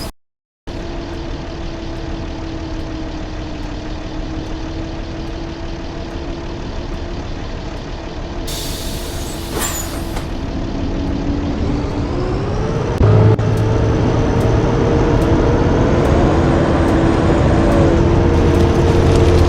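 Blue Bird D3FE school bus diesel engine running steadily, with a short hiss of released air from the air brakes about halfway through; near the end the engine note rises as the bus pulls away and accelerates.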